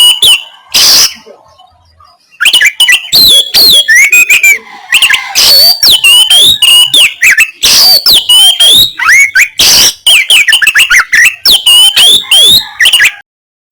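Oriental magpie-robin (kacer) singing loudly in a fast, unbroken run of harsh, rasping notes mixed with short whistled glides: the rough 'kasaran' song type. There is a pause of about a second near the start, and the song stops just before the end.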